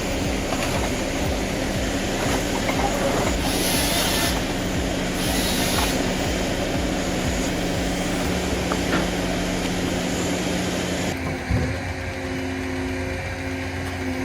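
Forestry harvester's diesel engine running steadily under load, with two short hissing bursts a few seconds in. The engine note changes near the end.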